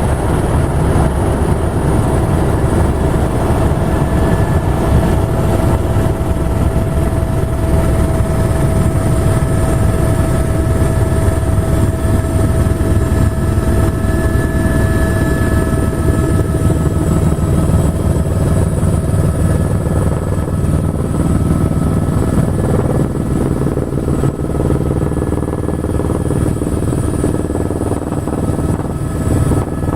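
Helicopter running: a steady, loud rotor and engine noise with a constant high whine over a deep rumble.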